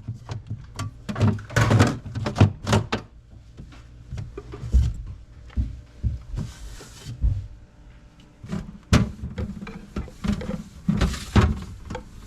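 Irregular knocks and clunks of objects being handled and set down, with a short hiss about six and a half seconds in.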